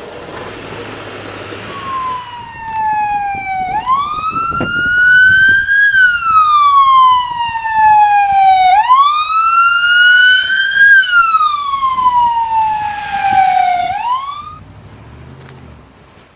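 Emergency vehicle siren wailing, with three slow cycles in which the pitch rises quickly and then falls slowly. It comes in about two seconds in and fades out near the end.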